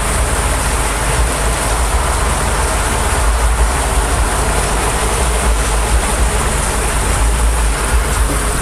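Heavy downpour in strong wind: an even hiss of rain over a deep rumble of wind buffeting the microphone.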